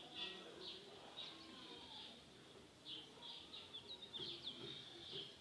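Faint birdsong: short, high-pitched chirps repeated a couple of times a second, some of them quick sliding notes.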